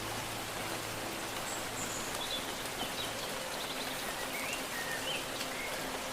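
Steady rain falling, with several short bird-like chirps about halfway through.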